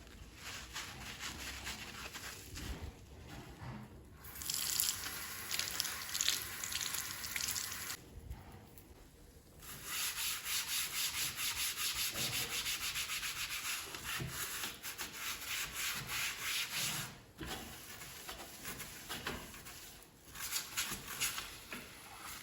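Scrubbing a surface by hand in rapid back-and-forth rubbing strokes, with a few short pauses.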